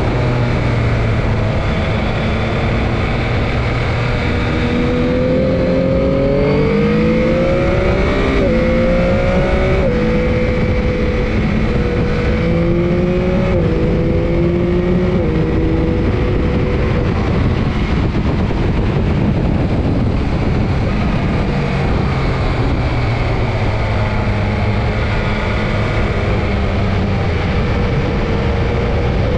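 Motorcycle engine heard from on board, pulling hard through the gears: the pitch climbs and drops sharply at each upshift, four times in quick succession between about eight and fifteen seconds in, then holds, eases off and builds again near the end. Constant wind rush over the microphone underneath.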